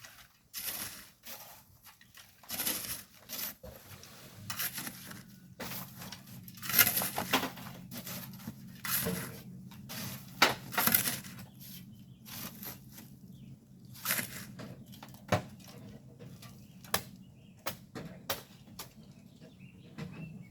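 Hand tools scraping and scooping volcanic sand and gravel, a run of irregular crunching scrapes, some loud. A low steady hum runs underneath from about four seconds in.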